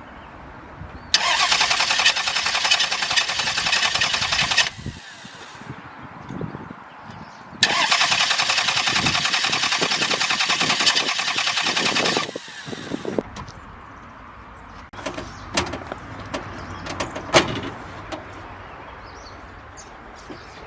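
Starter motor cranking a Lexus RX300's V6 engine in two attempts of about four seconds each, a fast even churning that cuts off each time without the engine running on. A few sharp clicks and knocks follow near the end.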